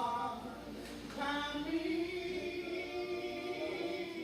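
A voice singing unaccompanied, holding long drawn-out notes that glide slightly in pitch.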